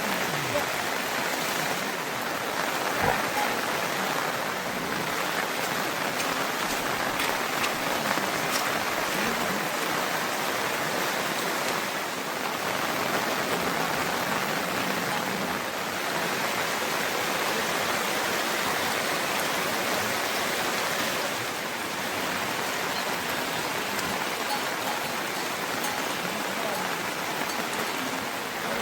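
Steady rain falling, an even continuous hiss with a few faint drip-like ticks.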